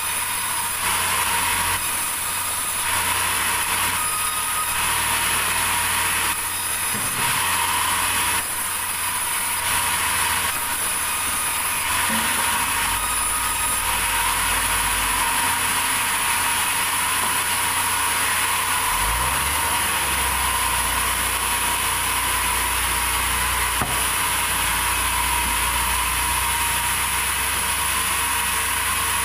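Sawmill machinery running continuously, with a steady high-pitched whine. A deeper engine rumble joins in about two-thirds of the way through.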